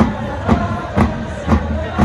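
Football supporters singing a victory chant together, over a drum struck steadily about twice a second.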